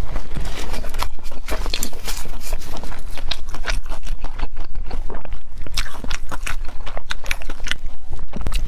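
Close-miked chewing and biting of fried, sugar-dusted red bean puffs (xue mian dou sha), heard as a continuous run of moist mouth clicks and light crunches, with a fresh bite taken near the end.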